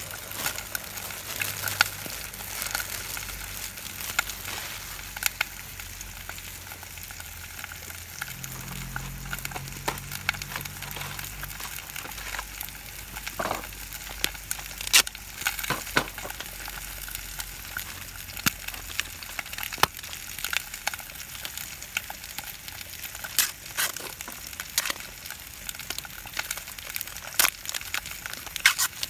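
Food sizzling over a wood campfire: a steady hiss with frequent sharp pops and crackles scattered throughout.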